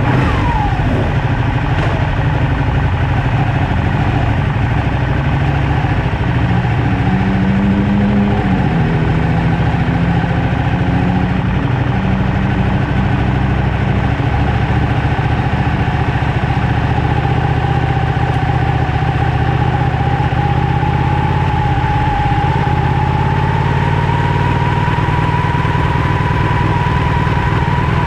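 Ducati Panigale 1199S's Superquadro L-twin engine running steadily at low revs, heard from a camera mounted on the bike as it rolls at pit-lane speed. A faint whine slowly rises in pitch in the second half.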